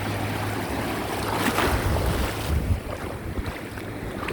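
Small ocean waves washing in over the shallows, with wind buffeting the microphone; a louder rush of water comes about one and a half seconds in.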